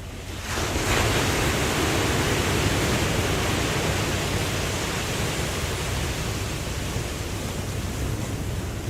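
Ocean surf: a wave breaks with a rush that swells up about half a second in, then slowly eases off over a low, steady rumble.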